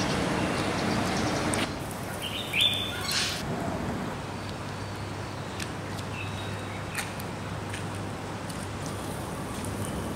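Outdoor ambience: a steady traffic-like rush cuts off after about a second and a half, leaving a low hum with a few short bird chirps, the loudest about two and a half seconds in.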